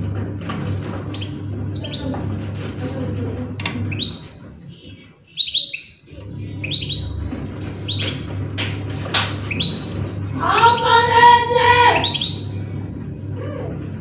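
Small cage birds chirping in short, sharp calls over a steady low hum. Near the end a high-pitched voice calls out for about two seconds.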